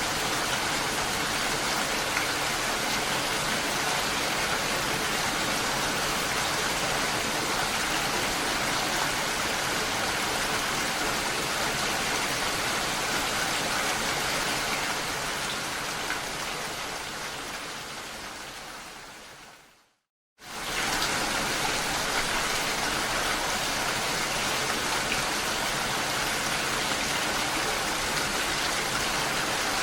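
Steady rain with an even hiss. About two-thirds of the way in, it fades away over several seconds into a brief silence, then starts again suddenly at full level.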